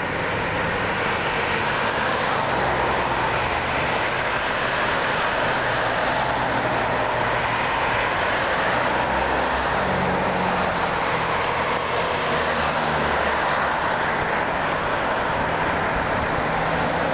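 Steady rushing noise of a running vehicle, with a low engine hum underneath.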